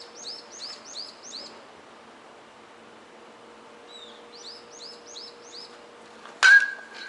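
A small bird sings two runs of quick, repeated, arching high chirps, about three a second. Near the end comes a loud, sharp metallic crack with a ringing tone lasting about a second: a metal baseball bat striking the ball.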